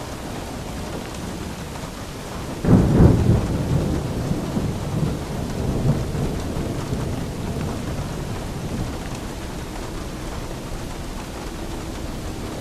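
Steady rain with a thunderclap about three seconds in, a sharp crack that rolls on as rumbling and fades away over several seconds.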